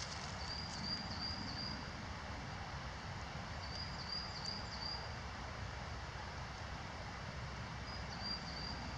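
A small bird calling faintly: three short runs of three or four high chirps, a few seconds apart, over a low steady outdoor background noise.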